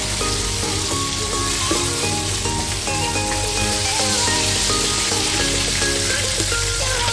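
Flour-coated squid strips deep-frying in hot oil in a pan: a steady, busy sizzle of bubbling oil, with light background music underneath.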